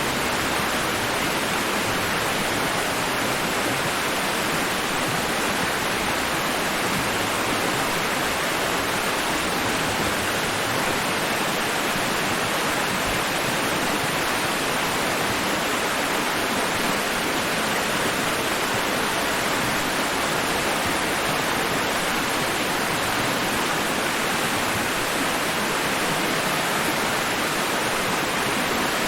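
Steady, even rushing noise, like white or pink noise, from a sleep white-noise track; it has no rise and fall of breaking waves.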